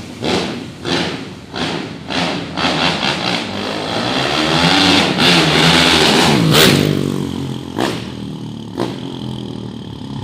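Single-cylinder 150 cc motorcycle engine with an aftermarket imported exhaust being revved: a run of quick throttle blips, a longer rev that climbs and falls back in the middle, then a few more sharp blips near the end.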